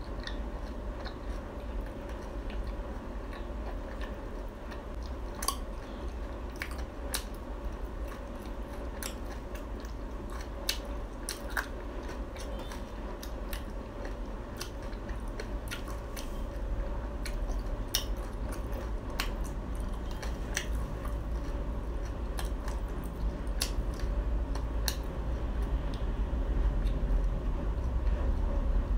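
Close-miked chewing of Khmer crispy fried cakes: many irregular sharp crunches as the crisp crust breaks between the teeth, over a steady low hum.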